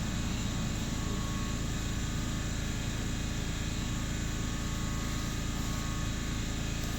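Steady background noise: an even hiss with a low hum underneath, with no distinct knocks or tool sounds.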